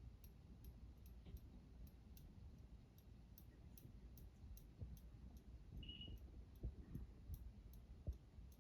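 Saga Crown Colony ceiling fan running on medium, wobbling, its pull chain making faint regular clicks about two to three times a second.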